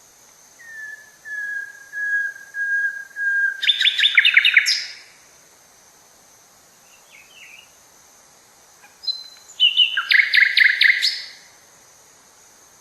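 A songbird singing twice. The first phrase is a string of slightly falling whistled notes that breaks into a fast, rattling trill about four seconds in. A second burst of rapid trilled notes comes around nine to eleven seconds.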